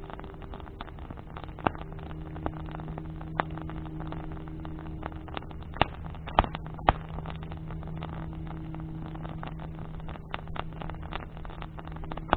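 Bonfire of burning branches crackling with constant sharp pops, a few loud ones around the middle, over a steady low engine drone.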